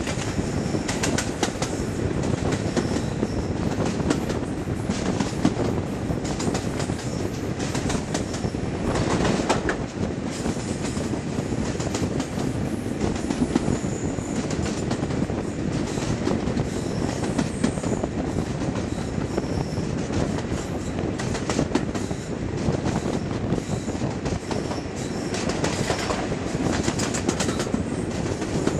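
A diesel-hauled train running along, heard from a carriage window: steady rumbling running noise with wheels clicking irregularly over rail joints.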